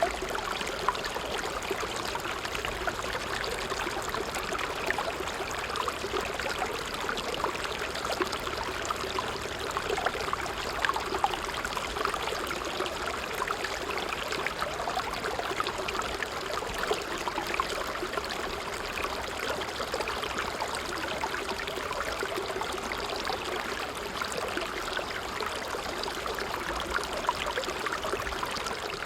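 A small stream flowing steadily: a continuous, even rush of running water.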